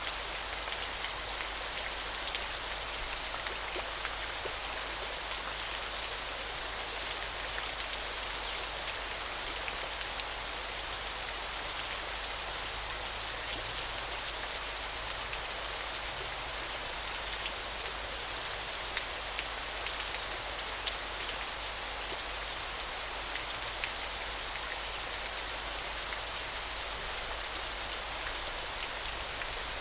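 River water running in a steady rushing hiss with faint scattered splashes. A thin, high-pitched call repeats in phrases of one to two seconds with short gaps through the first eight seconds, stops, and comes back over the last seven.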